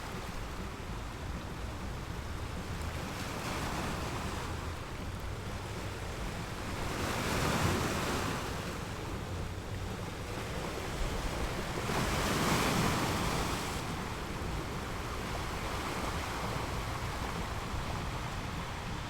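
Sea waves breaking and washing up a sandy beach, with a steady surf rush and two louder breakers swelling up about seven and twelve seconds in.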